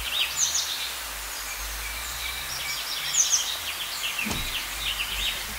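Small birds chirping and twittering: many short, quickly repeated high calls, often falling in pitch, over a steady background hiss.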